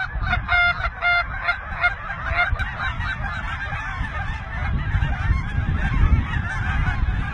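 A large flock of geese calling, many honks overlapping into a constant clamour, with two louder, clearer honks in the first second or so. A low rumble runs underneath.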